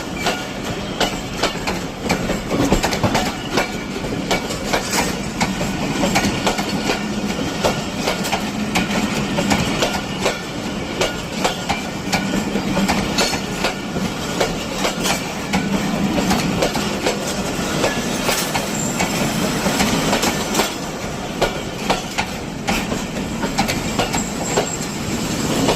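Passenger train running on the rails: a continuous rumble with a steady low hum under it and a constant, irregular clatter of wheels clicking over the track.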